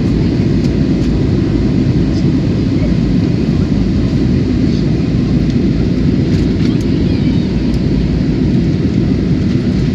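Passenger airliner's engines and rushing air making a steady low drone that does not rise or fall.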